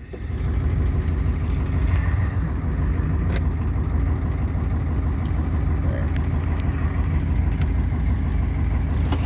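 Ford IDI diesel pickup engine running steadily as the truck drives, a low, even drone with a few light knocks.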